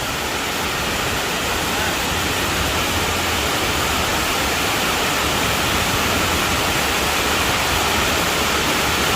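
Waterfall: water pouring over rock in a loud, steady rush.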